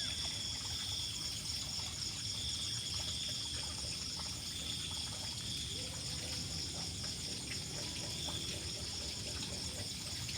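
Steady background hiss under a high, even, pulsing buzz, with one faint kitten mew about six seconds in.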